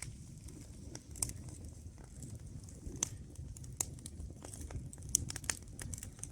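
Campfire crackling, with irregular sharp pops and snaps over a low rumble.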